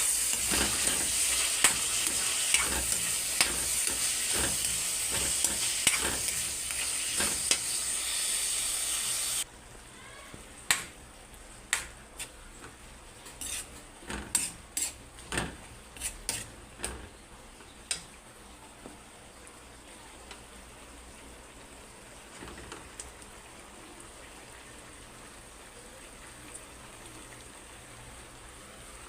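Boneless chicken frying in hot oil in a pan, a loud steady sizzle with a utensil stirring and clinking against the pan. About nine seconds in the sizzle cuts off abruptly, leaving a faint hiss and a run of separate utensil clinks that stop about halfway through.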